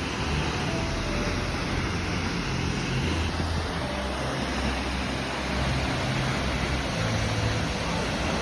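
Steady rushing of the Mac Mac Falls waterfall, an even roar of falling water, with a few faint short whistles over it.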